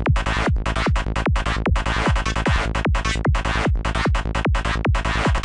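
Finished psytrance demo loop at 150 BPM: a dark FM-like synth lead made in Native Instruments Massive, over a kick on every beat (about two and a half a second). It cuts off suddenly at the end.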